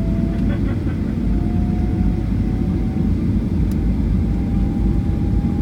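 Cabin noise of a Boeing 737-800 taxiing after landing: a steady low rumble from the idling CFM56 turbofans and airframe, with a faint whine slowly rising in pitch.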